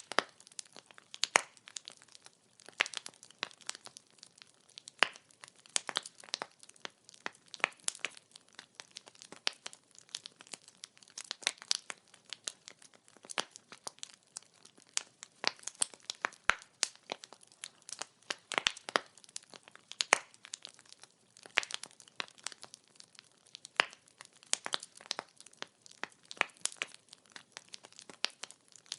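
Wood fire burning: a steady stream of irregular crackles and sharp pops from the burning logs, over a faint hiss.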